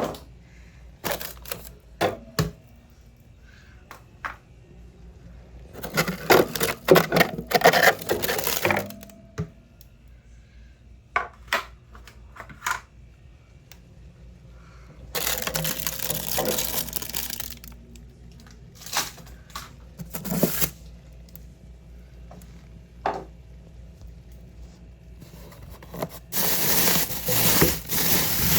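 Hand-cleaning a mini fridge: scattered clicks and knocks, with three stretches of scrubbing noise a few seconds long.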